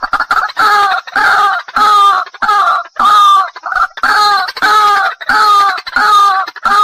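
White-breasted waterhen (ruak-ruak) calling: a fast stuttering run of notes gives way, about half a second in, to loud croaking notes repeated evenly, about one and a half per second, the bird's long territorial call sequence used as a trapping lure.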